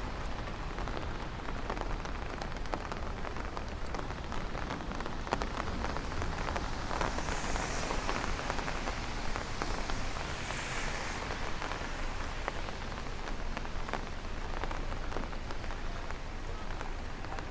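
Steady rain falling on a city street, with many small drop hits.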